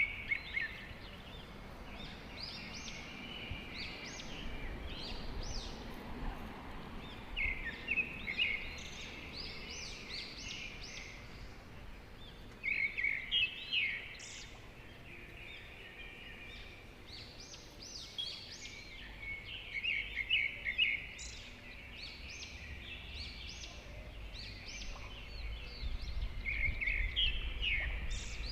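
Songbirds singing short, trilling phrases that recur every few seconds, over a low steady rumble.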